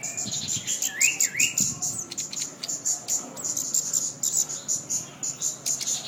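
Sepah putri minivet singing: a fast, continuous run of short, high chirps, with two quick rising whistled notes about a second in.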